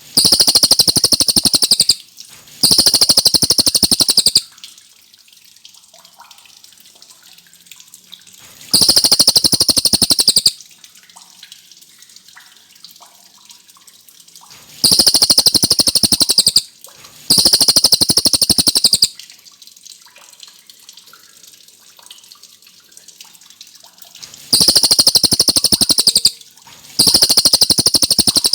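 A cililin songbird singing long, very fast rolled trills, each about two seconds long. They come mostly in pairs with a brief gap between them, seven trills in all, separated by pauses of several seconds.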